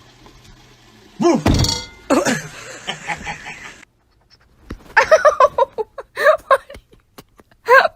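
A heavy thunk about a second and a half in, then a series of short voiced cries.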